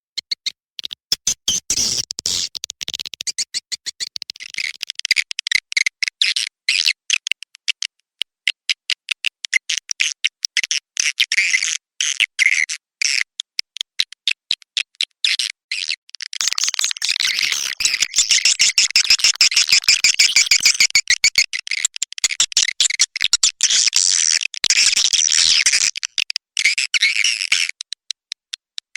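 Swiftlet calling-sound recording, the kind played to lure swiftlets into a nesting house: rapid twittering chirps and clicks in fast trains with short breaks. They grow denser and fuller about halfway through, then thin out again near the end.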